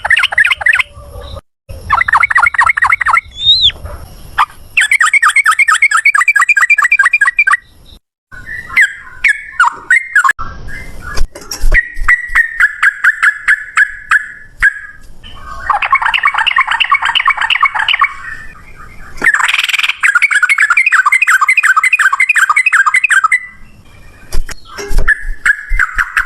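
Yellow-vented bulbul (trucukan) singing loud, fast, chattering trills ('ropel') in phrases of a few seconds each, with short pauses between them.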